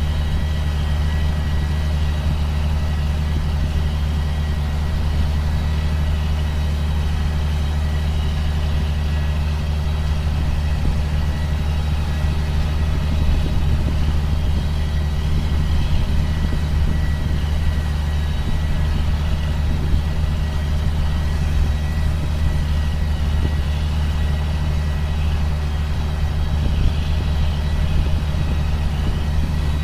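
John Deere sprayer's engine running at a steady speed, a constant low drone with a thin, steady high whine above it.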